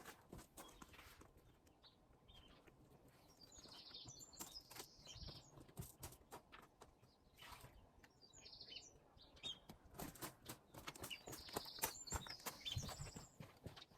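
Small garden birds chirping faintly, three short bursts of song a few seconds apart, with scattered light clicks and knocks in between.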